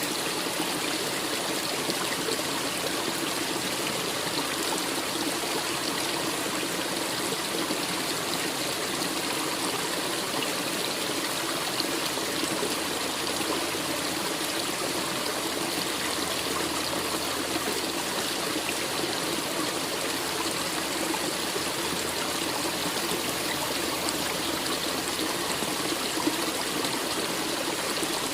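A forest stream running steadily over rocks, with a constant rushing and trickling of water.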